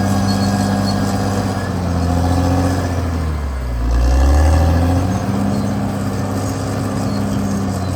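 Caterpillar D6R XL bulldozer's diesel engine running steadily under work. About three seconds in, its pitch dips and climbs back over a second or so while it gets louder.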